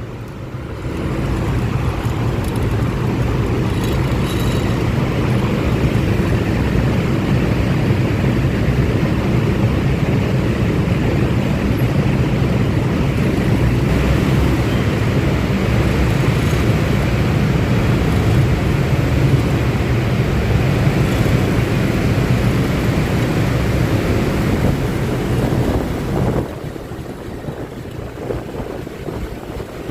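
Honda Click 125i single-cylinder scooter under way, its engine and road noise mixed with wind rushing over the rider's microphone. The noise builds about a second in, holds steady, then drops sharply near the end.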